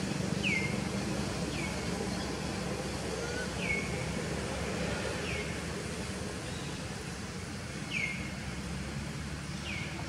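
A bird calling over and over with short falling whistled notes, one every one to two seconds, over a steady low background hum.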